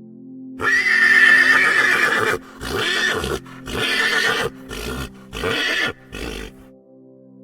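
Horse neighing: one long, high whinny, then five shorter calls in quick succession that stop about two thirds of the way through.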